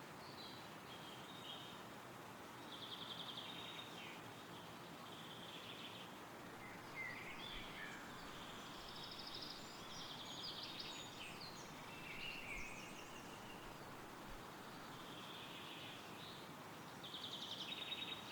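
Songbirds singing in woodland: short trilled phrases come every few seconds, with the loudest near the end, over a steady soft hiss of wind through the trees.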